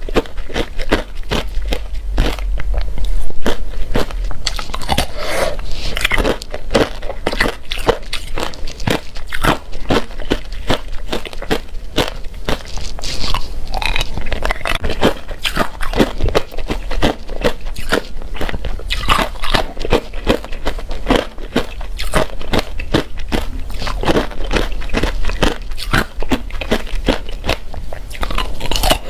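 Close-miked chewing of crunchy shaped ice, a rapid, continuous run of sharp crunches and snaps.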